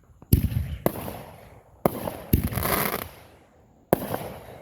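Fireworks going off: about five sharp bangs, each trailing off with an echo, with a burst of dense crackling in the middle.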